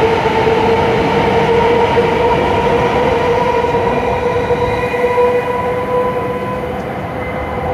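W7 series Shinkansen departing from the platform, its running noise and a steady tone going by, then slowly fading after the last car passes about four seconds in.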